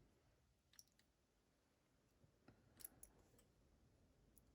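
Near silence with a few faint, short clicks from small lock parts being handled while the lock is shimmed apart: one about a second in, a small cluster around three seconds, and another near the end.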